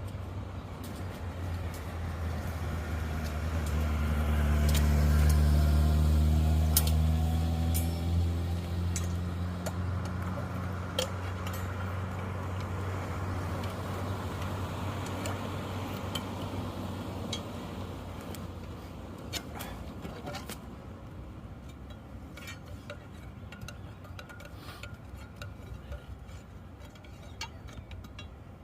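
A motor vehicle passes by. Its low engine rumble swells to its loudest about five seconds in, falls in pitch as it goes past, then slowly fades. Scattered small clicks and ticks run throughout.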